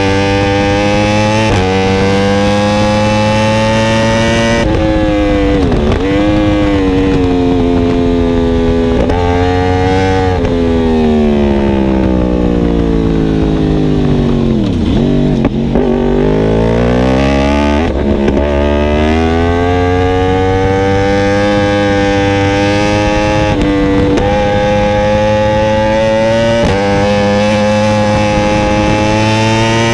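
2016 Yamaha R1M's crossplane inline-four through an Akrapovic exhaust with link pipe, revving up through the gears with a sudden drop in pitch at each upshift. Around the middle the revs fall in a long slide with several downshifts as the bike slows, then climb again through another run of upshifts.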